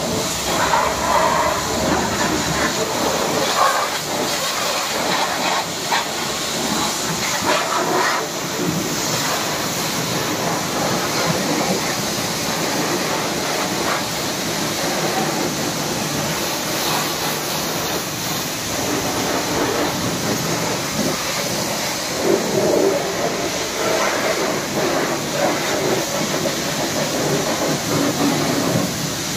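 High-pressure washer jet spraying water onto a two-wheeler, a steady loud hiss of spray with small irregular changes as the jet moves over the bike.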